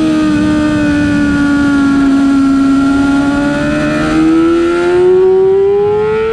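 Race motorcycle engine under way, its pitch dipping a little and then climbing steadily as the revs rise through the second half.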